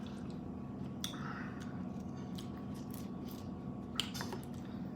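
Small eating and handling noises: a sharp click about a second in, a short rustle after it, and another click near the end, over a steady low hum.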